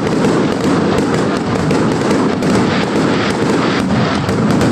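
Fireworks going off in a dense barrage: continuous rapid crackling and popping, many small bangs a second over a steady rumble, with no let-up.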